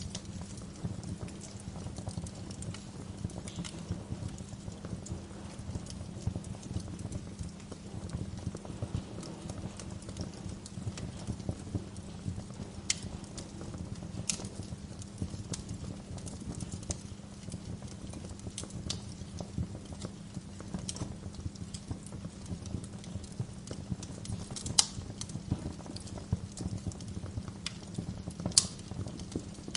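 Bonfire crackling: a dense, steady crackle of burning logs with sharper pops now and then, the loudest near the end.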